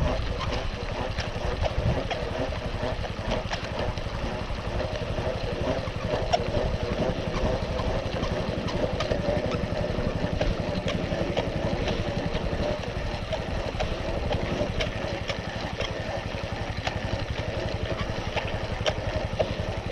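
Farm motorbike engine idling steadily, with scattered light clicks over it.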